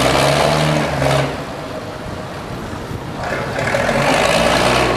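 Boat engine running and rising in two swells of about two seconds each, a steady low drone under a rushing noise.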